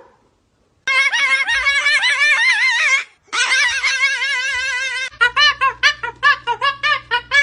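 A parrot calling in two long, wavering cries, followed about five seconds in by music with a quick run of short notes over a steady low hum.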